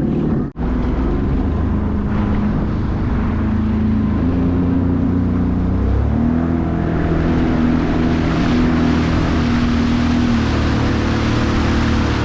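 Sea-Doo Spark Trixx personal watercraft's engine running under way, its pitch stepping up twice partway through as the throttle opens. A hiss of water spray grows in the second half, and the sound breaks off for an instant about half a second in.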